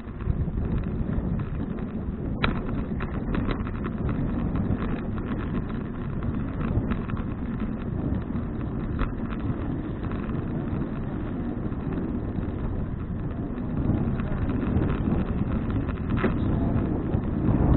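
Wind rumbling on the microphone of a bicycle-mounted action camera while riding, with scattered small clicks and rattles from the bike over the road.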